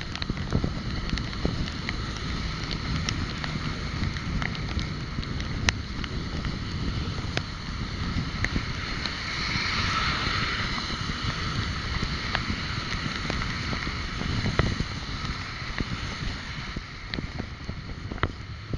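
Wind buffeting the microphone of a moving bike, over a low road rumble, with scattered sharp clicks and rattles. A brighter hiss swells for a couple of seconds about halfway through.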